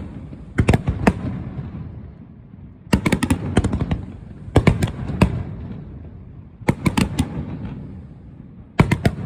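Fireworks bursting in clusters of several sharp bangs, a new cluster about every two seconds, each trailing off in a low rumble.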